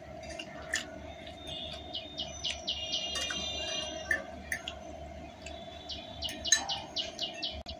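A bird chirps in two quick runs of repeated high notes, about two and six seconds in. Under it are close-up eating sounds: a fork clicking on a glass plate and chewing of noodles. A steady hum runs underneath.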